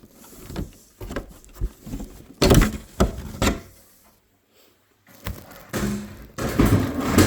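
Wooden shipping crate being pulled apart: a string of wooden knocks and thumps, the loudest about two and a half seconds in, with a falling board or lid among them.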